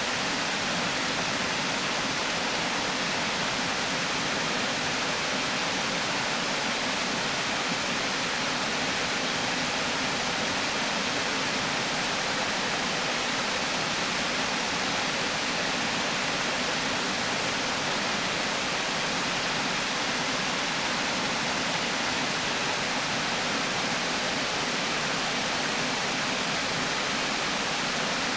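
Water pouring steadily over a river weir: an even, unbroken rush with no distinct splashes or changes.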